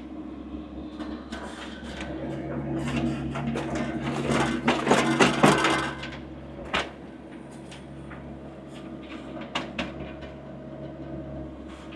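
Diesel engine of a compact loader machine running steadily, then working harder for a few seconds as it pushes through mud, with knocks and clanks mixed in. The load eases suddenly about halfway through, and single knocks follow.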